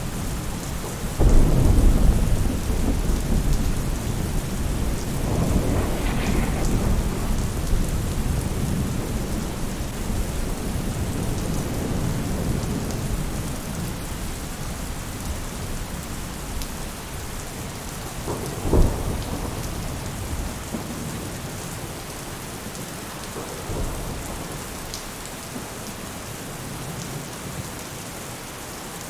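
Steady rain falling on a roof, with thunder: a loud low rumble breaks about a second in and rolls off over several seconds, a sharper clap comes about two-thirds of the way through, and a fainter one follows.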